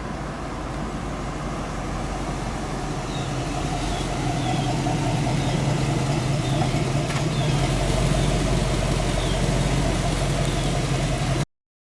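1972 Chevrolet Chevelle's engine running steadily, growing louder over the first few seconds and then holding, before the sound cuts off suddenly near the end.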